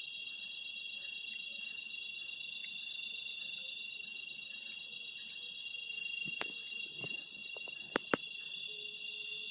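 Dense, steady high-pitched chorus of forest insects. A couple of sharp clicks or knocks cut through it about eight seconds in.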